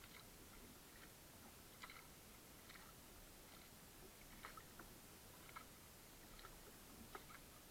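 Near silence with faint, irregular small ticks and clicks scattered throughout.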